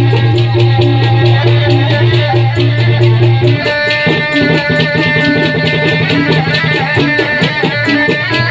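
Dikir barat music: Malay hand drums and percussion playing a fast, even rhythm. A steady low tone runs under it and stops about three and a half seconds in, after which the drumming gets busier.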